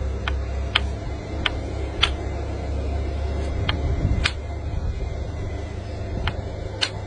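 Eight sharp taps in four pairs, spaced a couple of seconds apart, as an opal-bearing rock is struck to split it along an opal bar, with a steady low hum underneath.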